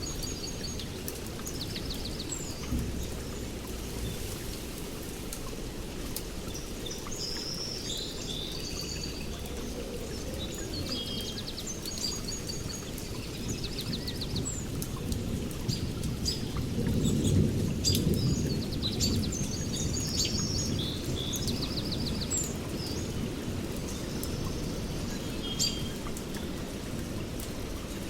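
Small birds chirping and trilling in short repeated phrases over a steady low rumble of distant thunder, which swells and peaks about two-thirds of the way through.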